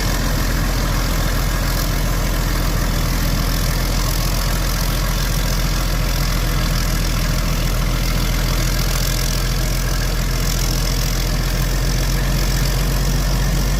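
A truck engine running steadily at idle, a low, even hum with no change in speed.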